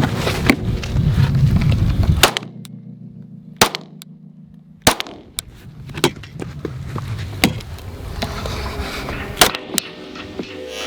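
Glock 48 9mm pistol being fired, a string of single shots spaced unevenly about a second or more apart, with background music under the first couple of seconds.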